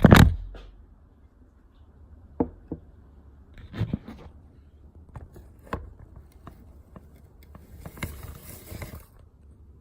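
Handling noise: a heavy thump at the start, then scattered light clicks and knocks, and a hissy scrape a little over a second long near the end.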